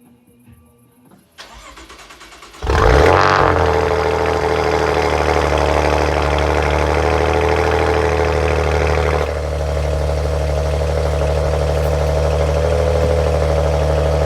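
Cold start of a Maserati Ghibli S Q4's 3.0-litre twin-turbo V6. The starter cranks for about a second, and the engine catches with a loud flare of revs. It then settles into a steady, raised cold idle, which drops a little about nine seconds in.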